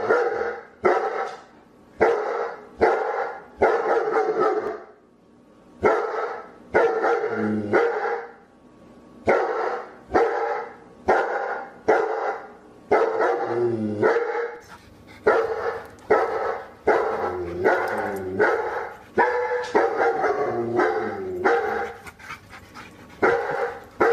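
A dog barking over and over, roughly one bark a second, in runs broken by brief pauses; some barks slide in pitch.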